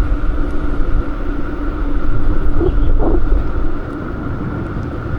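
Wind rumbling on the microphone over passing street traffic while riding a bike, with a steady hum underneath; the rumble eases somewhat a little before four seconds in.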